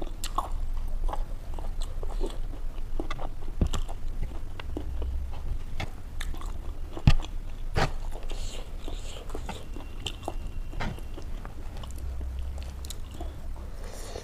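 A person chewing and crunching food close to the microphone, with many sharp crunches and clicks scattered irregularly; the loudest crunches come a little past halfway.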